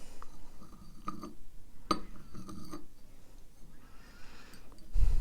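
A coffee cup being handled and turned, giving small clinks and rubbing, with a sharper clink about two seconds in and a low bump near the end.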